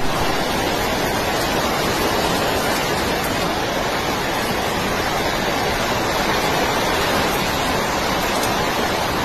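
Heavy storm rain and wind, a steady, even rushing noise without breaks.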